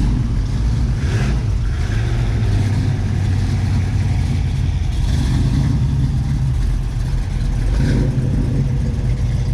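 Engines of classic cars driving slowly past one after another while leaving a car show: a steady low engine sound that swells briefly three times as cars go by.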